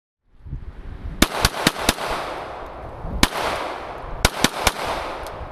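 Glock 17 pistol fired in quick strings: four fast shots, a single shot, then three more fast shots.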